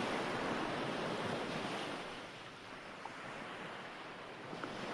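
Recorded ocean waves washing on a shore, a steady rushing surge that swells and then eases about halfway through.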